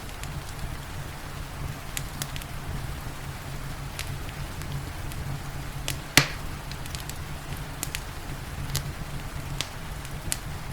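Wood fire crackling in a fireplace over steady rain: a low steady rumble with scattered sharp crackles, and one loud pop about six seconds in.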